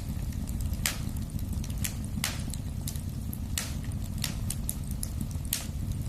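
Wood fire burning in a fireplace: a steady low rumble with sharp crackles and pops, four louder pops a second or two apart and many small ticks between.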